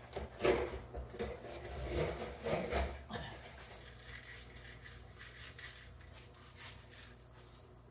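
Objects being handled: a few short scraping and rubbing noises in the first three seconds, then quiet apart from a low hum.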